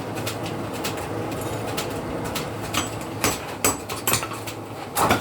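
Scattered light metallic clicks and taps, tools or metal being handled, with a denser and louder rapid clatter starting right at the end.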